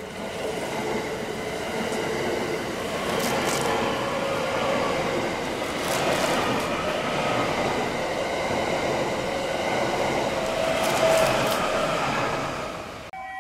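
Thunderbird limited express electric multiple unit passing through a station at speed: a steady rush of wheels on rail and moving air, with a few brief sharp clicks. The sound cuts off abruptly near the end.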